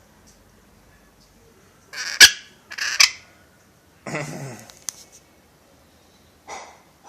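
Pet parrot giving short harsh calls: two loud ones about two and three seconds in, a longer call around four seconds in, and a short one near the end.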